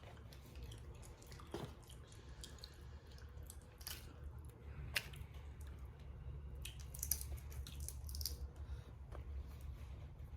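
Boiled crawfish being peeled and eaten: scattered small cracks and clicks of the shells with wet squishing and chewing, over a low steady hum.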